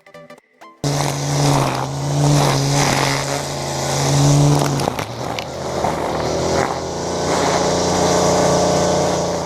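Small petrol engine of lawn-care power equipment running steadily at high speed. It cuts in abruptly about a second in and changes pitch slightly about halfway through.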